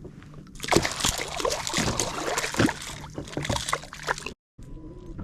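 Water splashing and sloshing at a kayak, with many small knocks and clicks; it breaks off briefly about four seconds in.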